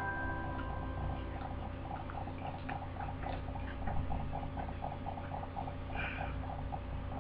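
Soft, rapid chewing, a steady rhythm of about three bites a second, with a brief louder sound about six seconds in.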